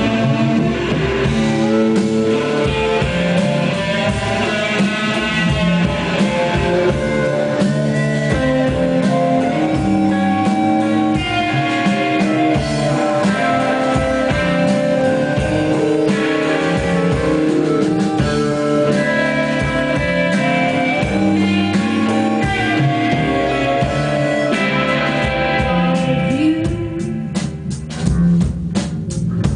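Rock band playing live, led by guitar over a drum kit. Near the end the guitar thins out and single drum hits stand out.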